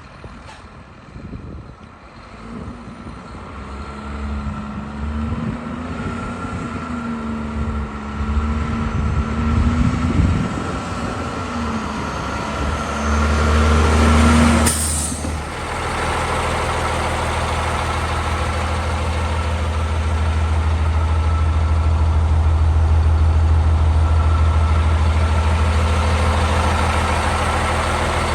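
The Cummins ISM diesel engine of a 2003 Volvo WX roll-off truck is running, with a wavering note that builds over the first half. About halfway through there is a short, sharp air-brake hiss. After that the engine idles steadily.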